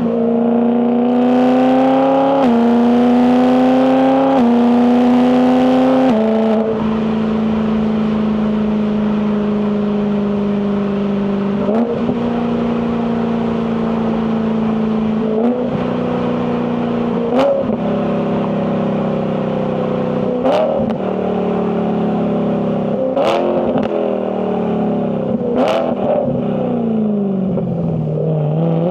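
BMW E92 M3's S65 4.0-litre V8 exhaust under acceleration, revs climbing through three quick DCT upshifts in the first six seconds. It then runs steadily at part throttle with several short rises in revs and a few sharp cracks, the revs falling away near the end before picking up again.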